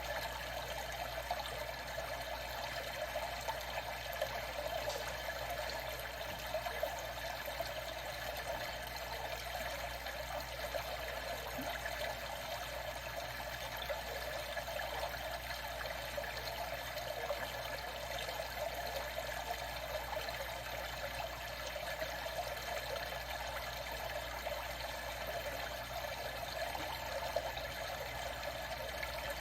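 Moving water trickling steadily, with small irregular splashes.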